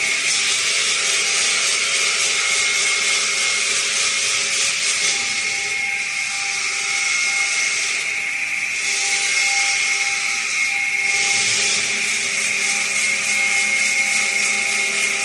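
CNC stone profiling machine grinding granite or marble with its diamond tool: a steady, loud grinding hiss with a high whine running through it. The hiss eases off briefly three times.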